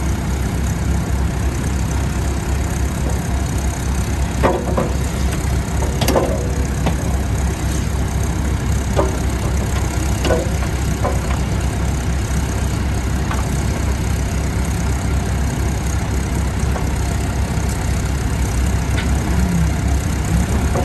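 New Holland 555E backhoe loader's engine idling steadily, with a few short metallic clanks now and then.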